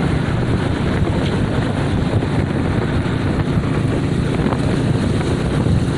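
Steady wind rushing over the microphone of a motorcycle riding along at speed, a loud, even roar heaviest in the low end.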